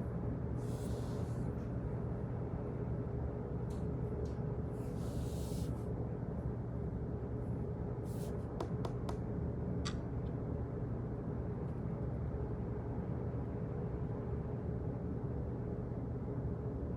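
Office background noise: a steady low hum with two short hisses in the first six seconds and a few scattered clicks, several close together a little past the middle.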